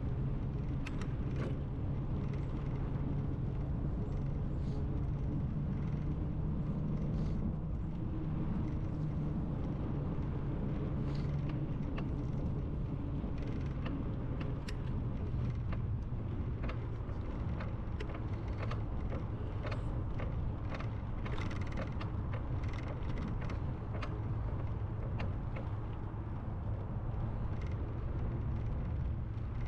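Steady rumble of a bicycle ride, with many small clicks and rattles scattered throughout.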